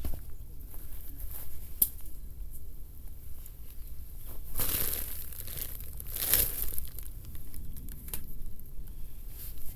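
Crinkling and rustling, with two longer swells of it about four and a half and six seconds in, among scattered small clicks.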